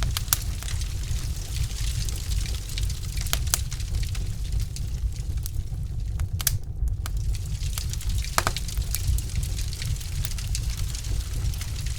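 Wood logs burning in a fireplace and crackling: irregular sharp pops and snaps over a steady low rumble.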